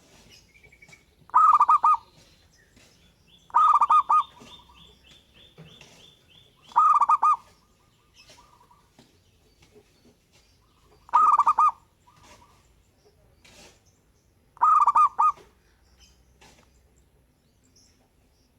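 Local zebra dove (perkutut) cooing: five short call bursts, each about half a second, a few seconds apart. A faint high, thin tone runs underneath for a few seconds in the first half.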